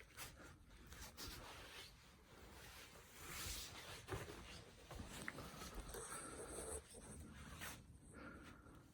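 Faint rustling and scuffing, with a few light taps scattered through.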